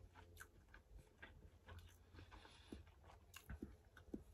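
Faint chewing with the mouth closed: a person eating a turkey meatball, heard as soft, irregular small clicks and ticks.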